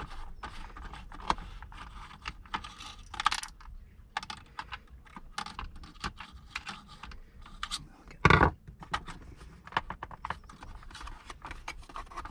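Irregular small clicks and taps of a screwdriver and hands working screws out of a plastic shower pump unit, with one louder clatter about eight seconds in.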